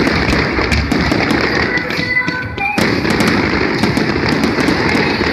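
Fireworks crackling densely, a rapid stream of small sharp pops with a brief lull just before three seconds in, over music playing along with the show.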